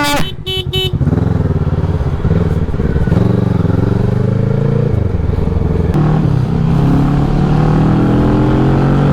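Motorcycle engine accelerating through the gears: the note climbs, drops at a gear change about five seconds in, and climbs again. A brief beep sounds at the very start.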